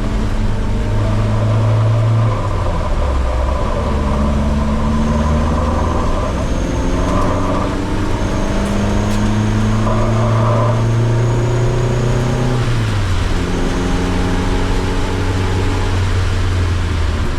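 Car engine under hard driving: its pitch climbs, drops at each gear change and climbs again, with a larger drop about three-quarters through.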